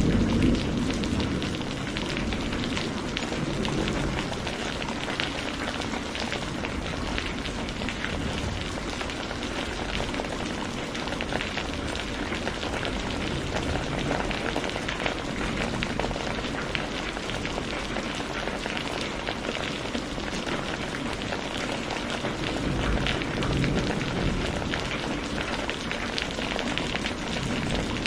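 Steady heavy rain, a dense patter of drops. A rumble of thunder dies away in the first second, and a fainter low rumble of distant thunder swells briefly near the end.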